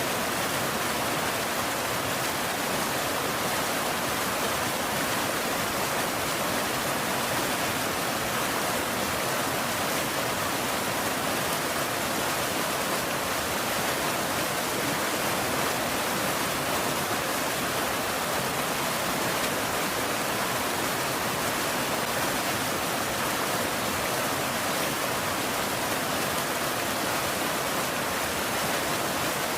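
Steady rain falling as an even, unbroken hiss, with no thunder or single drops standing out.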